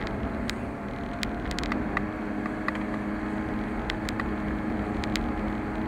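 A car driving: a steady engine hum and road rumble, with scattered sharp clicks and ticks.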